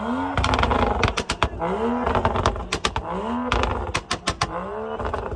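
Sports car engine revved hard again and again, the pitch sweeping up and falling back about every second and a half. Many sharp pops and cracks from the exhaust come between and during the revs.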